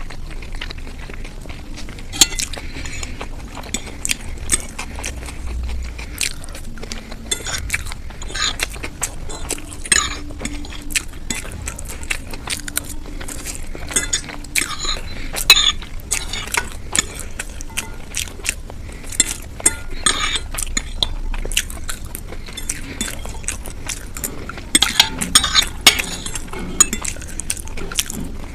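Metal cutlery clinking and scraping against a plate while eating, in many short irregular clinks that grow louder and more frequent near the end.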